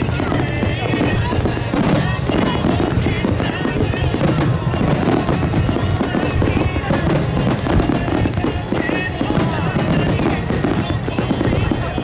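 Aerial fireworks bursting in quick succession, many overlapping bangs, over a pop song playing.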